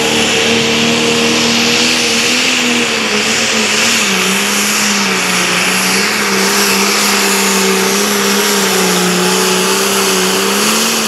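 Competition pulling tractor's engine at full throttle, dragging the weight-transfer sled down the track on a strong pass. The engine holds a steady high note under a harsh rush of noise, and its pitch sags a little about four seconds in as the load builds, then holds lower.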